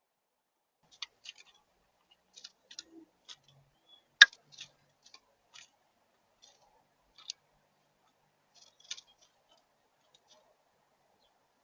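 Irregular small clicks and taps of birds pecking and cracking seed at a feeder, with one sharp, loud tap about four seconds in.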